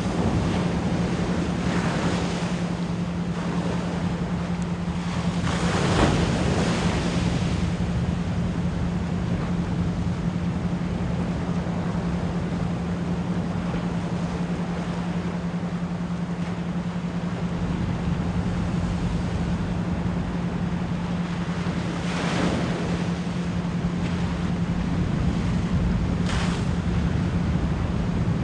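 A steady 174 Hz pure tone held under the sound of ocean waves. The surf surges louder about 2, 6, 22 and 26 seconds in.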